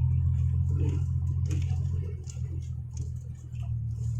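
Isuzu Deca dump truck's diesel engine droning steadily, heard from inside the cab, with faint rattles and knocks over it.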